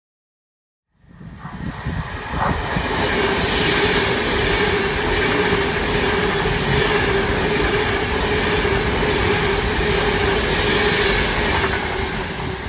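Passenger train passing at speed: a loud, steady noise of wheels on the rails and rushing air with a steady hum through it. It starts about a second in and fades near the end as the train clears the platform.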